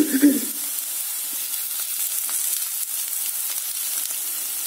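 Potato pieces frying in oil in a pan, a steady sizzling hiss.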